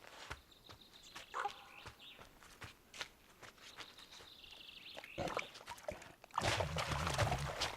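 Large wild animals squaring off over carrion: thin high drawn-out calls early on, then a loud, low growling snarl about six and a half seconds in.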